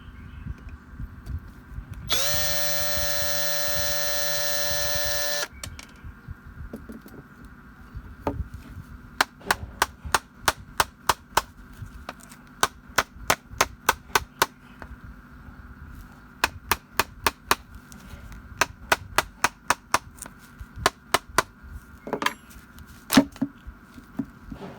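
A small electric power tool motor runs steadily for about three seconds, its pitch settling quickly after start-up, then cuts off. Next comes a long series of sharp, short taps on a workpiece, in quick groups of several a second.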